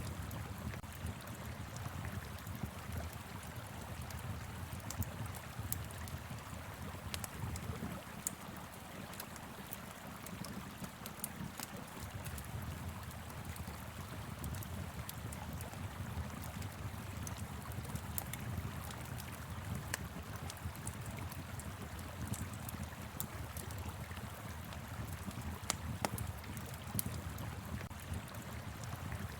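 Wood fire crackling with scattered sharp pops over the steady rush of a flowing river, with a low rumble of wind underneath.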